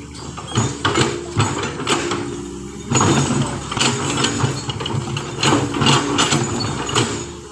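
An engine running steadily, with repeated sharp clanks and knocks over it that come thickest from about three seconds in.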